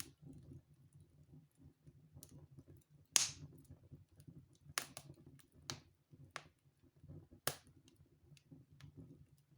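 Wood fire in a fireplace crackling, with scattered sharp pops at irregular intervals, the loudest about three seconds in, over a faint low rumble.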